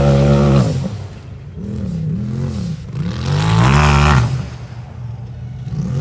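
Racing UTV engine revving hard at full throttle, dropping off well under a second in, then blipped up and down twice before revving hard again about three seconds in and easing off.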